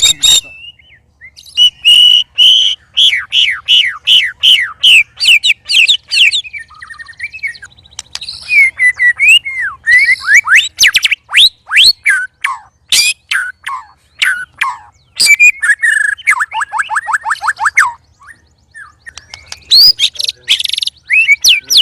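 White-rumped shamas (murai batu) singing loud, rapid strings of sharp downward-sweeping whistled notes, in bursts broken by brief pauses. It is the aggressive song of rival males set against each other.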